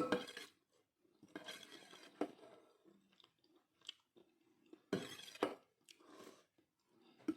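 Close-up eating sounds of a person chewing homemade thukpa noodle soup, in several bouts with short pauses between them.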